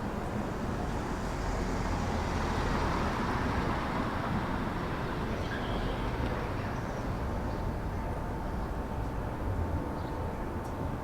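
City street traffic noise: a continuous rumble of passing vehicles that swells a couple of seconds in, with a faint steady tone joining in the second half.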